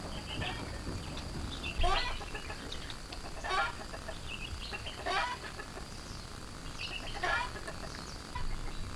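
Chicken clucking: short calls every second and a half to two seconds, over a steady high-pitched hum.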